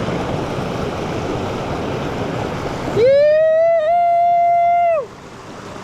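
Steady rushing of creek water, then about halfway in a person's long, high-pitched yell held for about two seconds.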